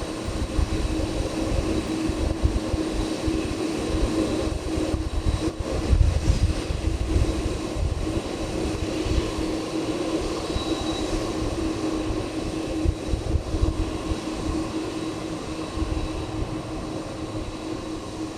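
Boeing 747's four jet engines running: a steady whine with a droning hum and thin high tones, over an uneven low rumble that swells and dips, loudest about six seconds in.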